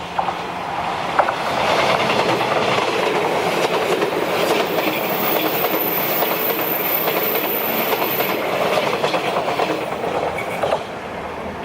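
381 series electric limited express train passing close by at speed, its wheels clattering over the rail joints. The noise swells about a second in, carries a thin high whine in the middle, and falls away sharply near the end.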